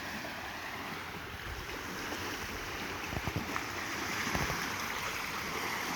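Flooded, muddy creek rushing steadily after heavy rain, high fast water giving a continuous rushing hiss, with a few faint low bumps in the middle.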